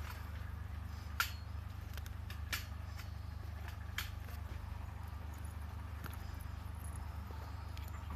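A small wood fire in a compact folding fire stand, giving a few separate sharp crackles over a steady low rumble.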